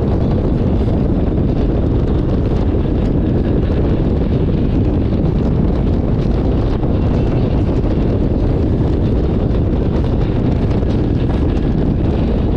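Wind buffeting the microphone on a moving motorcycle: a loud, steady low rumble of rushing air that holds even throughout.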